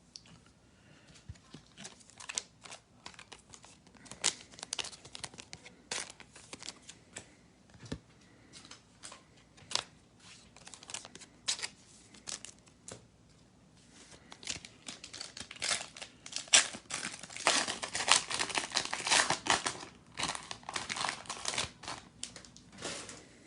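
Foil wrapper of a trading card pack crinkling and tearing as the pack is opened, with scattered crackles and clicks at first and a denser, louder stretch of crinkling about two thirds of the way in.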